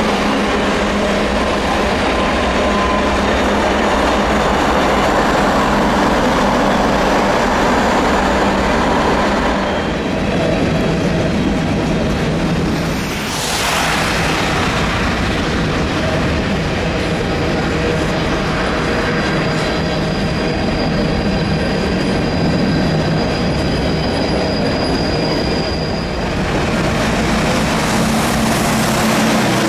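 Long CN grain train of hopper cars rolling past: loud, steady wheel-on-rail noise, with a thin, high wheel squeal that sets in around the middle and holds for about ten seconds.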